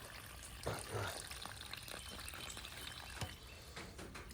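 Dirty water pouring out of the drain-plug opening of a Hoover wet/dry vac's tank, faint and steady, with a few soft knocks.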